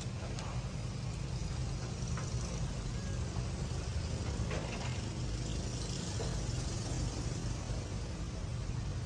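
A steady low rumble, like a motor running, with a few faint scattered ticks.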